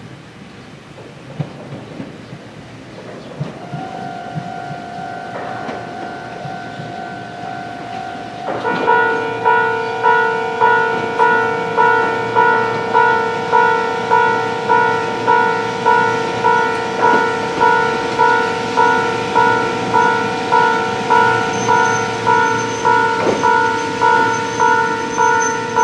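Ohmi Railway electric train rolling into the station, its wheels clicking over the rail joints, with a steady whine that stops shortly before the end. About a third of the way in, a Japanese level-crossing alarm starts ringing, an even pitched clang about one and a half times a second, and it is the loudest sound from then on.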